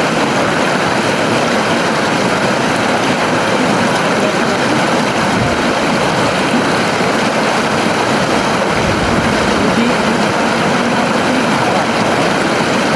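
A river flowing: steady, even water noise with no break.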